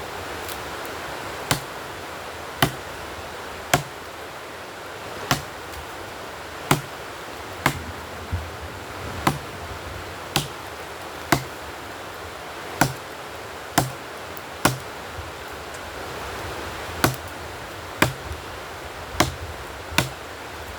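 Repeated sharp chopping blows on wood, about one a second, with a short pause about two-thirds of the way through, over a steady rushing background hiss.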